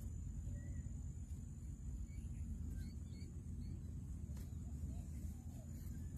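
Wetland ambience: a steady low rumble with scattered faint bird chirps, a thin steady high whine, and one sharp click about four seconds in.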